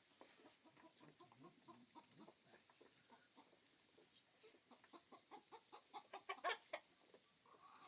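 Chickens clucking: a faint run of short, quick calls that grows louder and denser about five to seven seconds in.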